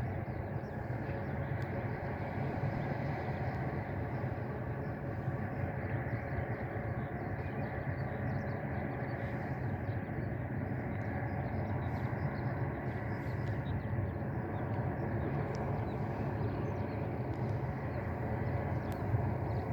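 Steady low engine drone with a faint steady whine over it, even throughout.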